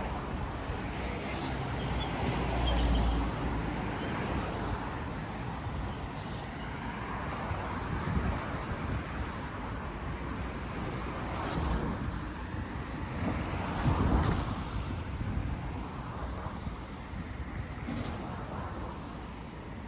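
Road traffic on a busy highway: a steady rush of passing vehicles, swelling each time a car or truck goes by every few seconds, loudest about fourteen seconds in.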